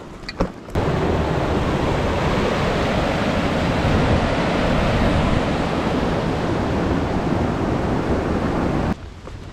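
Loud, steady rush of fast-moving creek water over rapids or a falls. It cuts in abruptly about a second in and stops abruptly near the end.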